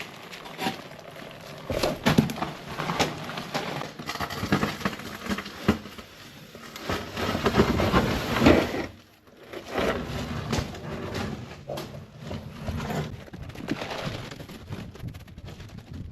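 Shovel work in sand: irregular scrapes and knocks, busiest about seven to nine seconds in, then a brief pause.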